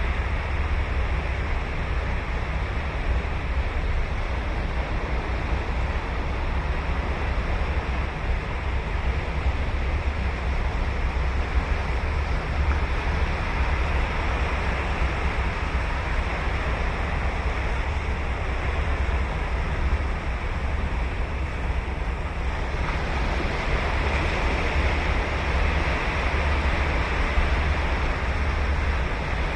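Ocean surf washing continuously onto a sandy beach, a steady hiss of breaking waves over a low rumble that sounds like wind on the microphone. A little over twenty seconds in, the hiss turns brighter and louder.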